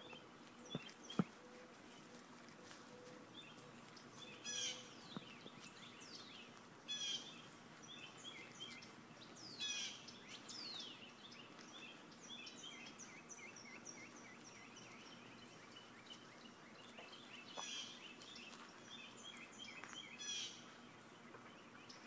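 Songbirds singing: high, quick falling whistles and bursts of short chirps every few seconds, over a faint steady background hiss.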